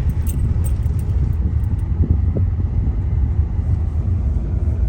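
Steady low rumble of a moving car, engine and tyre noise heard from inside the cabin, with a few faint ticks in the first second.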